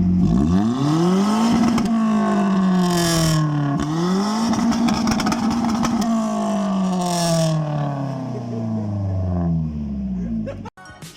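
Toyota Corolla engine revving through an open, near straight-piped exhaust with the muffler removed: the revs climb and hold, dip, climb and hold again, then slowly sink back before the sound cuts off abruptly near the end.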